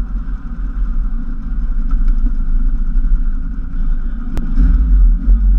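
Lotus Cortina's Lotus-Ford twin-cam four-cylinder engine running at low revs, heard from inside the cabin. There is a sharp click about four seconds in, and the engine then gets louder.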